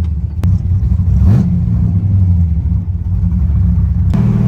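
LS3 6.2-litre V8 in a swapped Mazda Miata running under way, its low engine note rising briefly about a second in, then settling back; a click near the start and an abrupt change in the sound just before the end.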